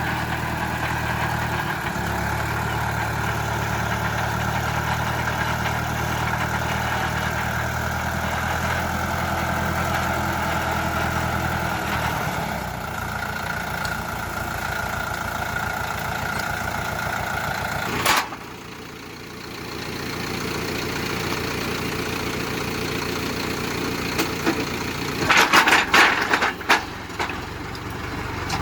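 Tractor engine running steadily, its note changing about halfway through. A sharp click is followed by a sudden drop in level, then a steadier, quieter running sound, and near the end a few short, loud bursts of noise.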